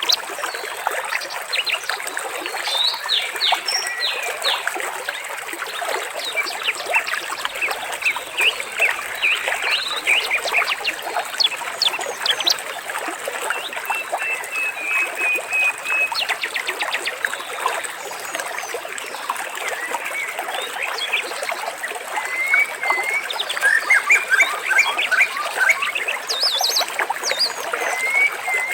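Water trickling steadily, with many birds chirping and calling over it throughout, busier near the end.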